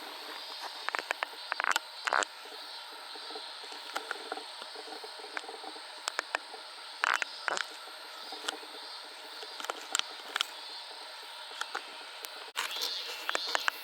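Steady outdoor background hum with many short, sharp clicks scattered through it; the background changes abruptly near the end.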